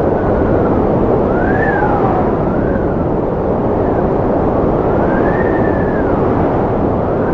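Strong wind blowing steadily: a dense, deep rushing noise with a high whistle that rises and falls several times.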